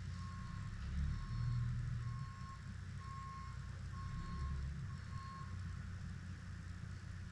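A vehicle's back-up alarm beeping at about one beep a second, six beeps that stop about five and a half seconds in, over the low rumble of an idling engine.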